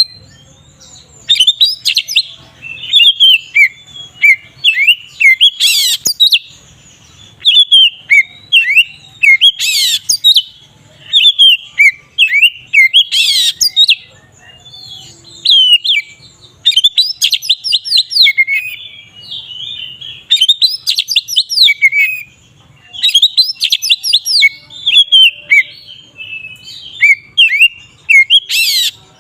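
Oriental magpie-robin (kacer) singing its full, loud 'ngeplong' song: fast runs of whistled notes and trills in phrases a second or two apart, with a few sharp, harsh notes mixed in.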